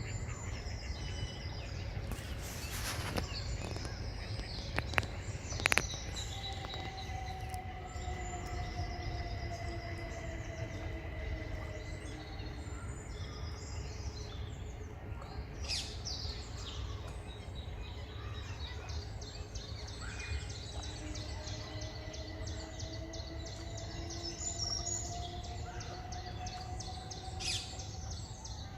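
Birds chirping and singing over a steady low rumble of background noise. A few sharp clicks come a few seconds in, and twice a faint drawn-out hum slowly glides in pitch for several seconds.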